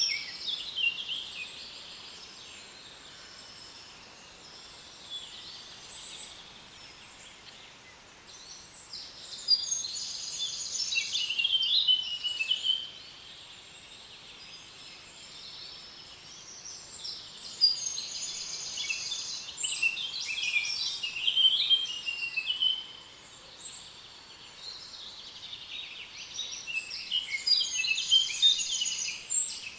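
Songbirds singing rapid, high, trilling phrases in bouts of a few seconds with pauses between, over a faint steady rush of flowing water.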